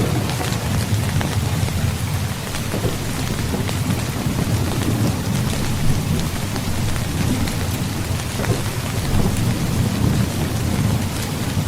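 Heavy rain falling steadily, with scattered close drop hits, over a low rolling rumble of thunder that grows stronger in the second half.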